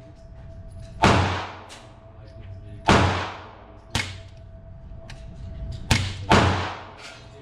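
Pistol fired five times at an uneven pace, each shot a sharp crack; three of them trail off in a long echoing tail.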